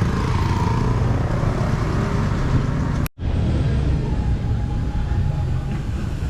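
Steady road-vehicle noise, with a low rumble underneath. It is cut off abruptly about three seconds in and picks up again straight after.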